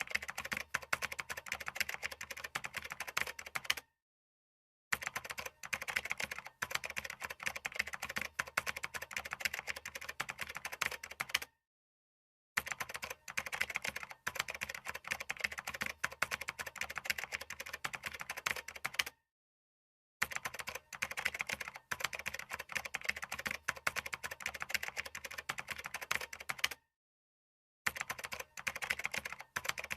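Rapid typing on a computer keyboard, a dense run of key clicks. It cuts to complete silence for about a second four times, at even intervals.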